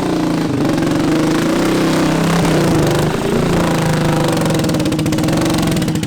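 Small engine of a modified mud-bogging lawn tractor running steadily, its pitch wavering briefly about halfway through.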